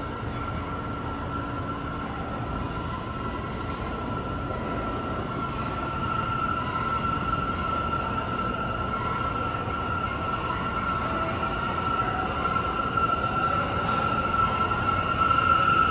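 New York City subway train running in the station, a steady rumble with a high, steady whine that grows louder toward the end as the train draws closer.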